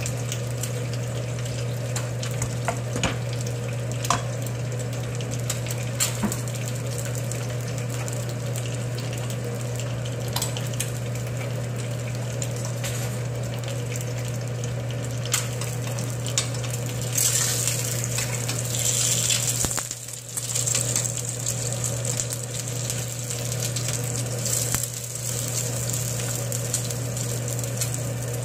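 Kimchi fried rice and eggs frying on a gas stove, with a wooden spoon knocking against the wok a few times in the first half. Past the middle the sizzling hiss grows much louder, dips briefly, then carries on, over a steady low hum.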